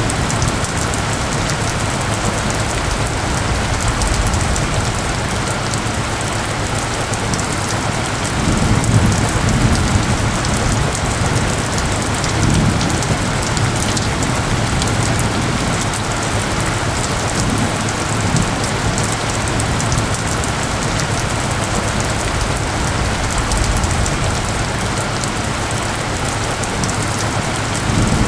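Steady heavy rain falling, a constant even hiss of drops on surfaces. A low rumble swells briefly about nine seconds in and again a few seconds later.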